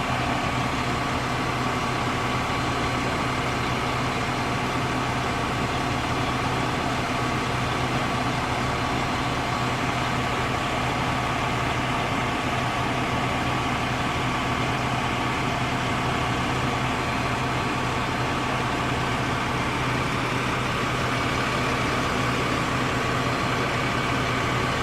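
Fire truck engine idling steadily, with a steady high whine over the low running note.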